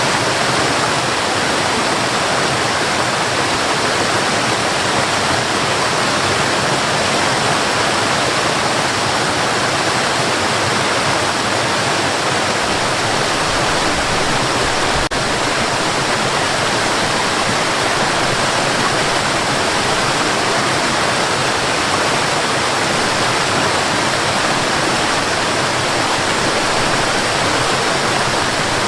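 Waterfall: water rushing steadily in an even, unbroken roar of noise.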